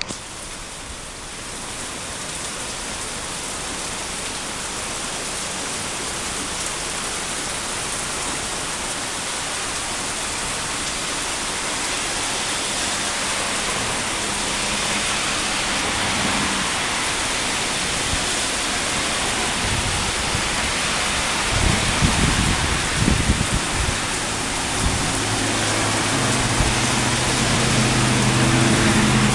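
Heavy summer rain pouring down, a dense steady hiss that grows gradually louder. A few low thumps come about two-thirds of the way in, and near the end a low engine hum joins the rain.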